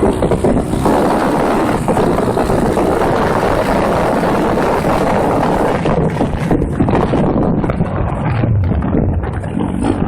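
Pit bike's single-cylinder engine running under throttle while being ridden, heard onboard with wind buffeting the microphone; the engine note eases about six seconds in.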